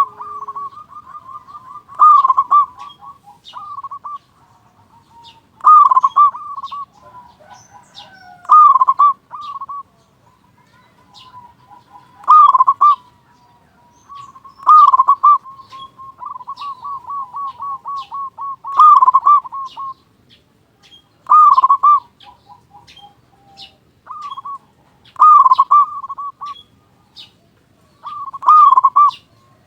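Male zebra dove (perkutut) cooing over and over with a big voice. Loud phrases come every two to three seconds, and some run into a long rolling trill.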